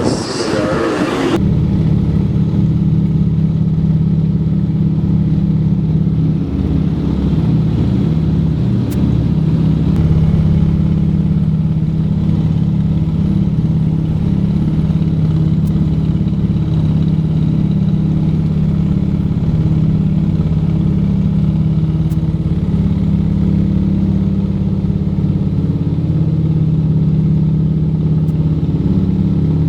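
Junkers Ju 52 tri-motor's three radial engines running with a steady, even drone. A brief rush of noise in the first second or so gives way to the drone.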